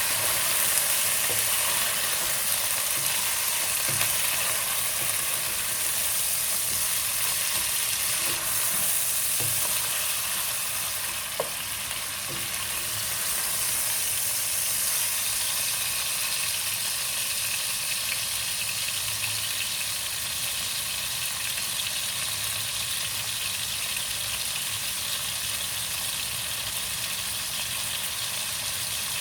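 Chicken pieces and fried onions sizzling steadily in hot oil in a pan while they are stirred and sautéed.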